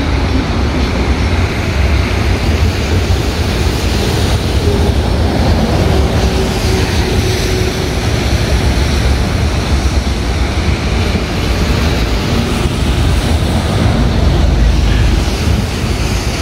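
Electric passenger train running, a steady loud rumble of wheels and motors that is heaviest in the low end.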